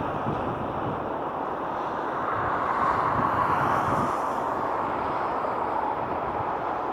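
Jet airliner engines roaring in a steady rush that swells slightly about three seconds in, with wind buffeting the microphone.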